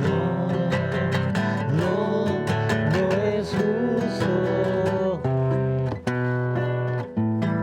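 Music led by strummed acoustic guitar, with a wavering melody line over held chords; the chords change with short breaks about five, six and seven seconds in.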